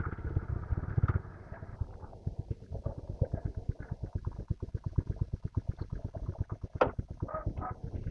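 Motorcycle engine idling, a rapid, even low putter.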